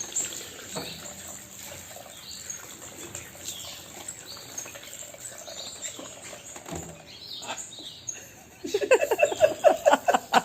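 Pet birds chirping with short, high calls and glides. Near the end a much louder, rapid run of short calls starts, about five or six a second.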